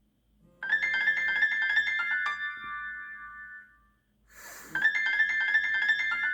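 An old iPhone ringtone: a quick keyboard-like riff of rapid notes that rings out. After a short swish about four seconds in, the riff starts again.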